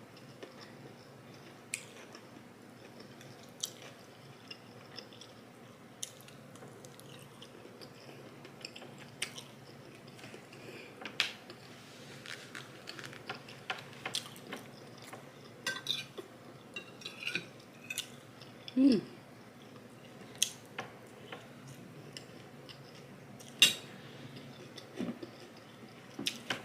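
Close-up eating sounds: chewing of fried rice and turkey, with a spoon clicking and scraping against a plate at irregular moments. There is a brief low hum a little past the middle.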